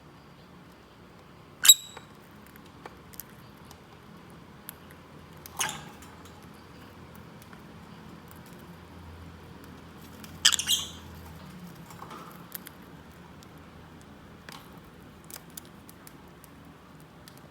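Lovebird giving three short, shrill calls, one about two seconds in, one near six seconds and a louder double call near ten and a half seconds, with faint scattered ticks between them.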